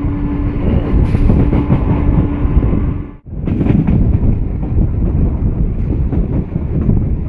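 Passenger train running along the line, a loud steady rumble of wheels and coach heard from on board, with a low steady hum through the first two and a half seconds. The sound drops out abruptly for a moment about three seconds in, then returns.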